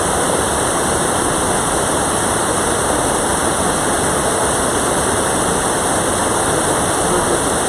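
Loud, steady rush of a mountain valley stream, an unbroken wash of water noise.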